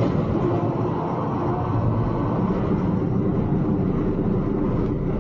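Steady vehicle driving noise, engine and tyres on the road, picked up by a dashcam inside a moving car. A sharp click sounds at the very start.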